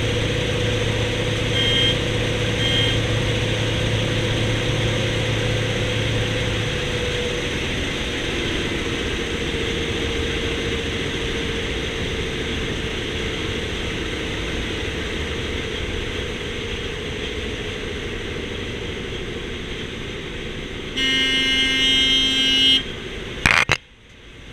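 Antonov An-2's radial piston engine running steadily, heard with heavy noise. Near the end a pitched horn-like tone sounds for nearly two seconds, then a sharp click and the sound drops away suddenly.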